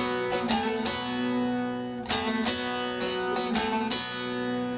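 Music: a plucked string instrument playing an instrumental passage of a song, with notes struck one after another and left ringing.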